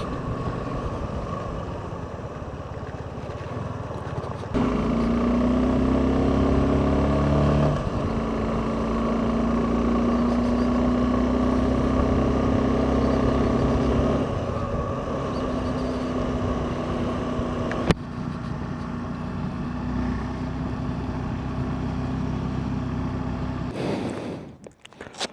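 Suzuki V-Strom SX 250's single-cylinder engine running on the move, with a steady hiss of road and wind noise. The engine gets louder about four and a half seconds in, holds, then eases back after about fourteen seconds. A single sharp click comes near the eighteenth second, and the sound breaks up briefly near the end.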